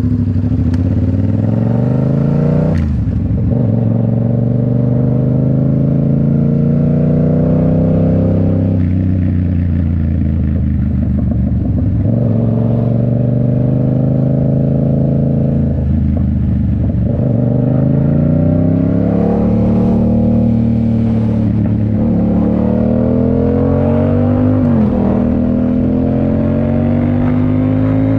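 A 2019 Yamaha MT-07's parallel-twin engine through a Toce full exhaust, pulling under throttle. The pitch climbs steadily and then drops sharply at each gear change, several times over.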